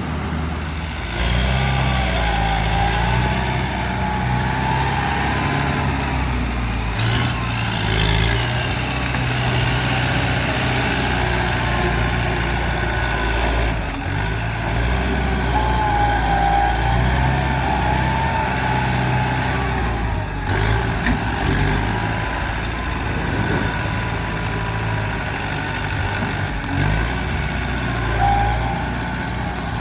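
Heavy diesel engine of working earth-moving machinery running throughout, its pitch shifting up and down every few seconds as the load changes.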